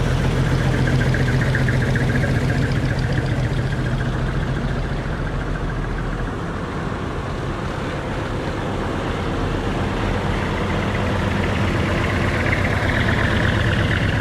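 Heavy truck diesel engines with manifold-split (mani-wari) exhausts running as decorated trucks drive past at low speed. One truck's low drone eases about halfway through, and another grows louder near the end.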